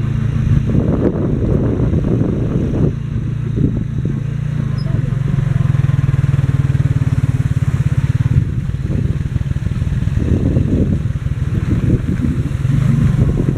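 Motorcycle engine of a Philippine tricycle (motorcycle with sidecar) running steadily while under way, with a faster, even pulsing in the middle of the stretch.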